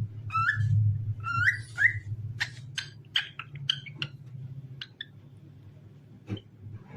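Cockatiel whistling: a few rising whistled notes, then a quick run of short chirps, fading out about five seconds in, over a steady low hum.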